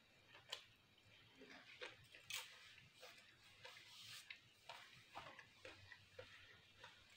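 Close-up eating sounds: faint, irregular wet mouth clicks and lip-smacking from chewing pasta, with a louder crackly burst about two and a half seconds in.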